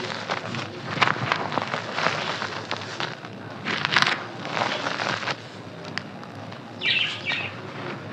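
Dry, crunchy clay being crushed and crumbled close to the microphone: a continuous run of crackly crunches, with sharper cracks about a second in and again around four seconds.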